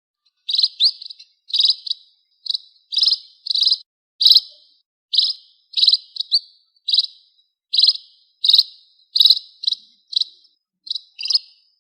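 Small bird calling: short, buzzy, high-pitched chirps repeated about every half second to second, often in quick pairs, the call of the bird known in Hmong as noog nplim.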